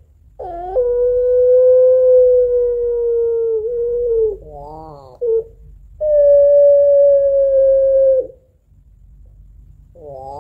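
Female puter pelung, a long-voiced Barbary dove, giving long drawn-out crying calls to summon a male: one even, slightly falling cry of about three and a half seconds, a short wavering coo, then a second, slightly higher long cry of about two seconds. A wavering coo begins again near the end.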